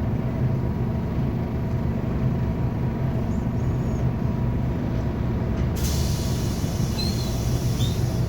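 Scania K280UB4 bus's diesel engine running with a steady low hum. About six seconds in, a loud hiss of compressed air starts and lasts about two and a half seconds: the bus's air brakes or air system releasing.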